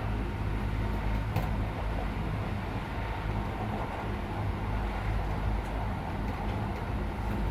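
Interior running noise of a Keisei 3400 series electric train car under way: a steady low rumble of wheels on rail, with a faint steady whine and a brief click about a second and a half in.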